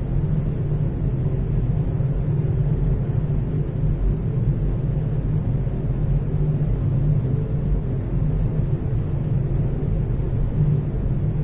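Room tone of a large hallway with the ventilation running: a steady low hum and rumble with a few faint steady tones, unchanging throughout.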